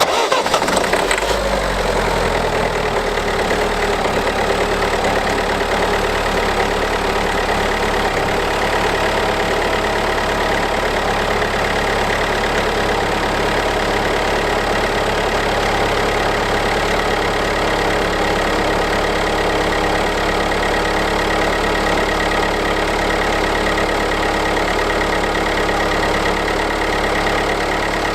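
A 2014 Peugeot Partner's 1.6 HDi four-cylinder common-rail turbodiesel starts in a −12 °C cold start, catching right away. Its revs ease down over the first couple of seconds, then it idles steadily.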